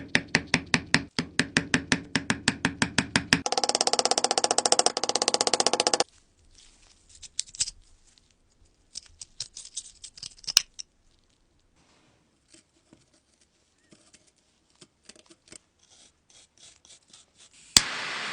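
Rapid, rhythmic scraping strokes on metal, about seven a second, then a faster, denser run of strokes. Scattered light clicks and taps follow. Near the end a sharp click is followed by a steady hiss.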